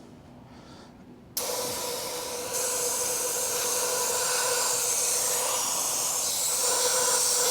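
Noga Mini Cool mist coolant system turned on about a second and a half in: a sudden steady hiss of compressed air spraying Trim Mist coolant, with a faint whistle-like tone in it, getting a little louder about a second later and then holding steady.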